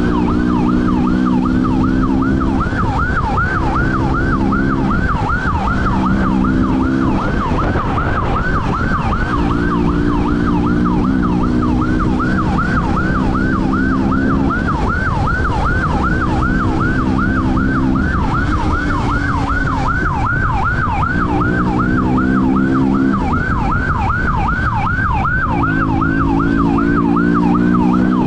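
Police siren wailing in a fast continuous yelp, several sweeps a second, over a vehicle engine that rises and falls in pitch and drops out every few seconds during a pursuit.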